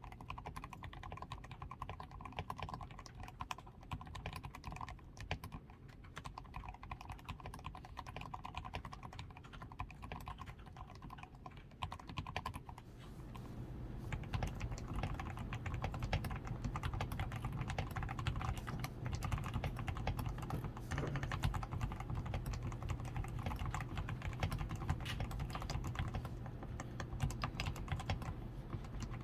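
Continuous typing on a DAREU A87 Pro mechanical keyboard that is fully lubed with Krytox 105, with a PCB tape mod, foam-reinforced switches, XDA keycaps and lubed stabilizers. The key presses come as dense overlapping clicks and clacks, growing faster and louder about halfway through.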